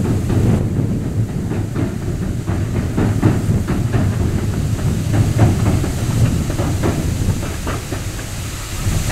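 Greater Anglia passenger train crossing a steel swing bridge: a steady low rumble with the wheels clicking repeatedly over the rail joints.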